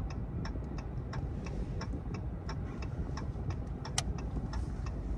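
A Dodge Charger's turn-signal indicator ticking steadily, about three ticks a second, over the low rumble of its 5.7 Hemi V8, heard inside the cabin.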